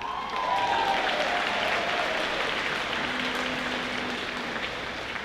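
Audience applauding, with one cheer falling in pitch in the first couple of seconds; the clapping slowly fades.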